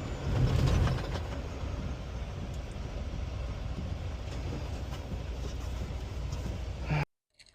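Semi truck's diesel engine rumbling at low speed, heard from inside the cab, with a steady hiss over it. It cuts off suddenly near the end.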